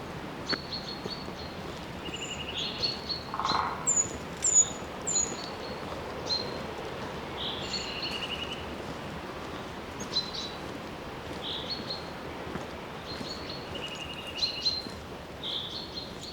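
Forest birds calling: short chirps and trills repeated throughout, with three quick high down-slurred notes about four seconds in, over a steady background hiss.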